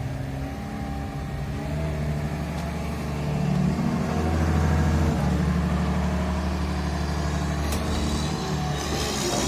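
Excavator diesel engine running under load. It picks up about two seconds in and then holds steady, and eases off shortly before the end.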